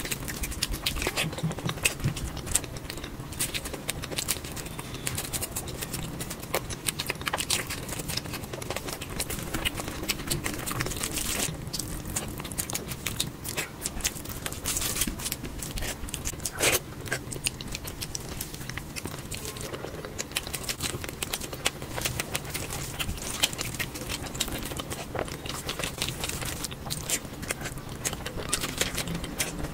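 Close-miked eating sounds: chewing with a quick, irregular run of wet mouth clicks and smacks.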